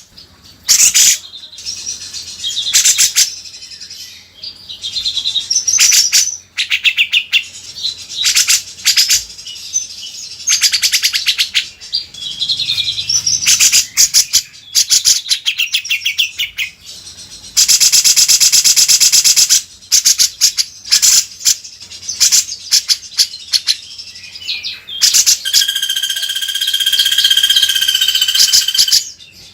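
Cucak jenggot (grey-cheeked bulbul) singing loudly: bursts of rapid chattering trills and chirps broken by short gaps, with a held whistle near the end.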